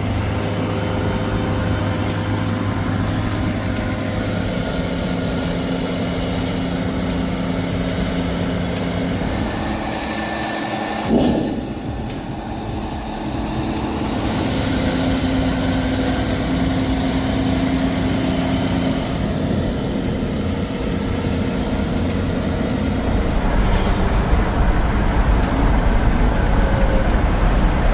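Heavy truck's diesel engine running steadily. There is a brief sharp sound with a short dip about 11 seconds in, and the engine sound gets deeper and louder from about 23 seconds.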